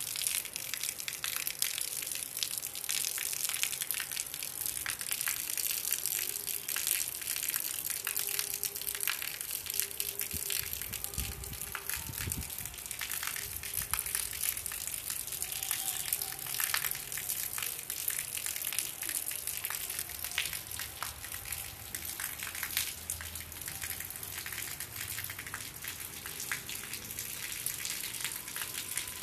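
Steady rain falling on a flat concrete roof: a constant hiss full of tiny crackling drop impacts, with a thin stream of water pouring from above and splashing onto the wet surface.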